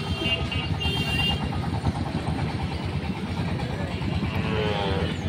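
A motor vehicle engine running steadily, with a rising pitched call near the end.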